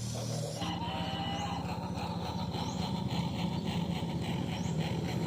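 Model electric train running on its track: a steady low motor hum with fast, regular clicking of the wheels over the rail joints.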